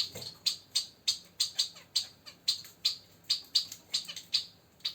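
Female Bengalese finch (society finch) calling over and over in short sharp chirps, about three or four a second, excited at the sight of a newly introduced male.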